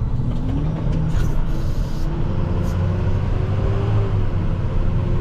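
Plow truck's engine running steadily, a low rumble with a faint steady hum, heard from inside the cab.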